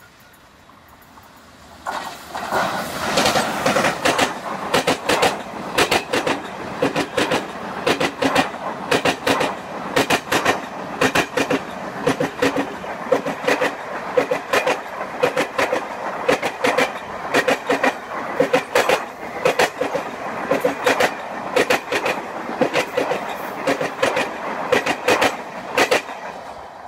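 Passenger train coaches passing close by at speed, the wheels clattering over rail joints in a quick, even rhythm over a steady rumble. It starts about two seconds in.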